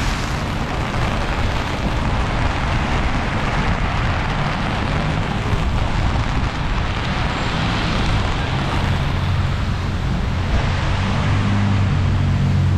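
Heavy freezing rain falling steadily on a city street, with a vehicle engine running under it whose low hum grows louder near the end.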